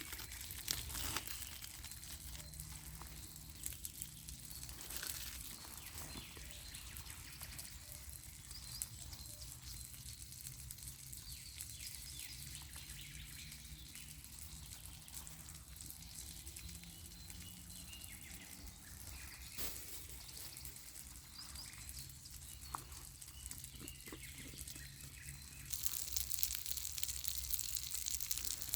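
Quiet forest ambience with faint bird chirps and scattered small clicks and crackles; near the end a steady hiss grows louder.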